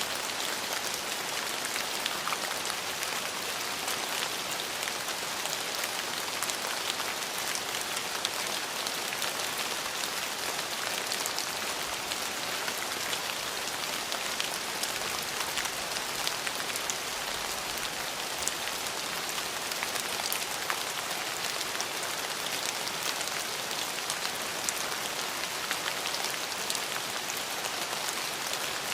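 Steady rain falling on hard surfaces, a continuous hiss with many small drop ticks scattered through it.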